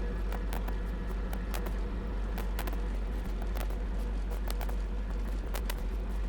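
Schweizer 300 helicopter's piston engine and turning rotor running steadily at about 1500 rpm during ground warm-up, heard as a low drone through the pilots' headset intercom audio, with irregular sharp clicks scattered through it.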